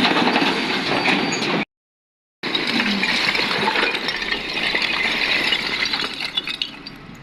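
Hardcore rubble and stones clattering and clinking as an excavator bucket loads them into a tipper truck, with the machinery's engine running underneath. The sound breaks off for a moment about two seconds in.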